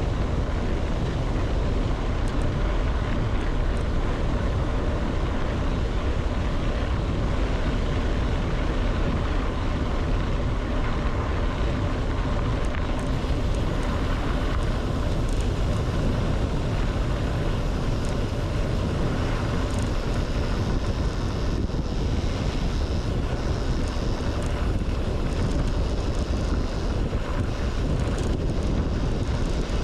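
Steady wind rush buffeting the microphone during a fast bicycle descent at about 50 km/h.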